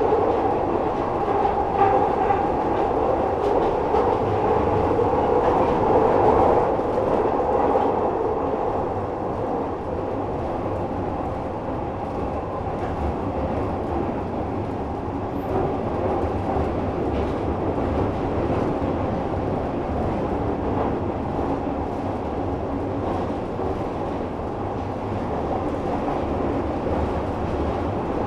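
Glasgow Subway train running through its tunnel, heard on board: a steady noise of wheels on rail, a little louder for the first several seconds and then even.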